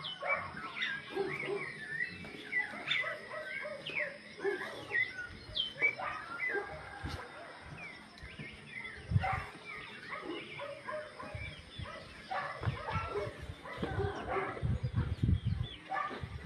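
Birds singing together: many short chirps and whistles, rising and falling in pitch, overlapping throughout. Lower, rougher sounds come in about nine seconds in and again over the last few seconds.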